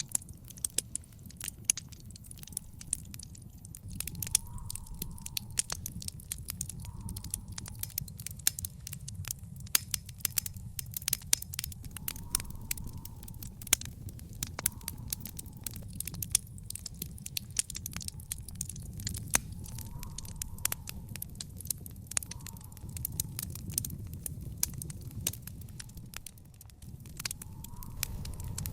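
Wood fire burning in an outdoor fire pit, crackling with frequent sharp pops and snaps over a steady low rumble of the flames.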